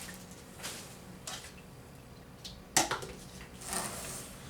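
Plastic parts and packaging of a hard-floor cleaner being handled during unpacking: a few scattered clicks and knocks, the loudest about three seconds in, with some rustling near the end.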